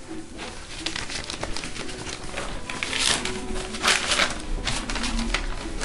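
Irregular rustling and scuffing with scattered clicks; the loudest rustles come about three and four seconds in.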